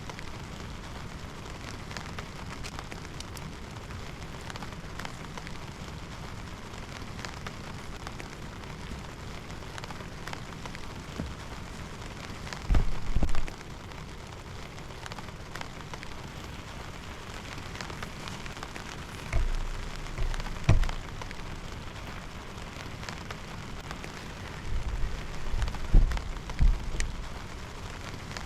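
Steady rain falling, with individual drops ticking sharply over the hiss. Three times there is a short, loud, deep rumble or thump: about halfway through, a pair a little later, and a cluster near the end.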